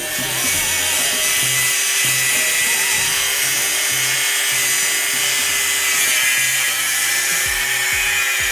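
Small grinder cutting the sheet-metal minibike fender, running steadily with a high-pitched whine, over background music with a regular beat.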